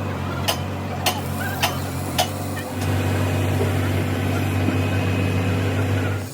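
A machine runs with a steady low hum. Sharp ticks come about twice a second in the first couple of seconds, and the hum gets louder about three seconds in.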